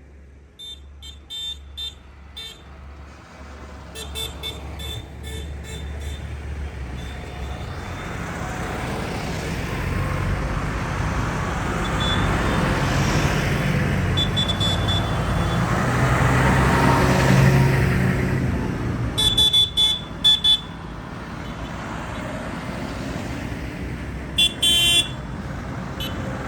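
Tractors driving past, their engines swelling to the loudest as one passes close about two-thirds of the way through, then easing off. Short horn toots sound several times, with the loudest in the last third.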